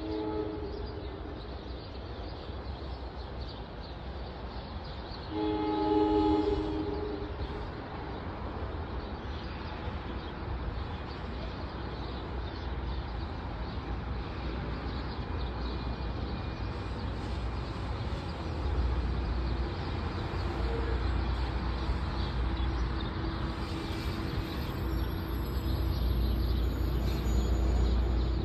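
Train horn sounding twice, a short blast at the start and a louder, longer one about five seconds in, followed by the train's low rumble growing steadily louder.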